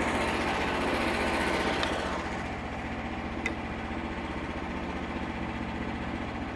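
An engine idling steadily, with an even low throb, a little quieter from about two seconds in.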